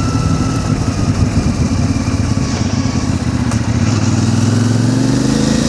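CFMOTO 450 MT motorcycle's parallel-twin engine running under way, its pitch climbing steadily from about four seconds in as the bike accelerates.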